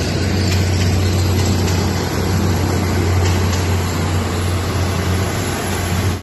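Philippine National Railways diesel commuter train running past and moving away: a steady rumble with a strong low hum, cutting off suddenly at the end.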